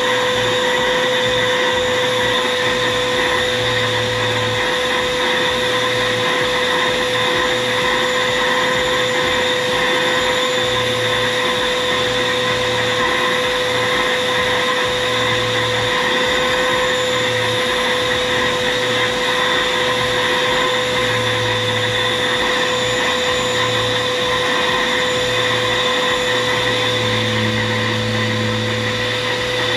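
Pet grooming vacuum running steadily with a constant motor whine, while its brush attachment is worked through a cat's fur to pull out loose shedding hair. A low hum comes and goes under the whine.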